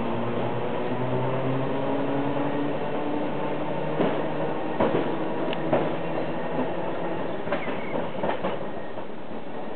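Historic tram running: a steady mechanical hum whose pitch steps up and down, with several sharp clicks and knocks from the wheels and running gear in the middle of the stretch.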